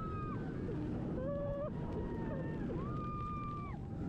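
Silverstar roller coaster train running in the rain: a steady low rumble with several high drawn-out squealing tones that rise, hold for about half a second to a second, and fall, overlapping one another.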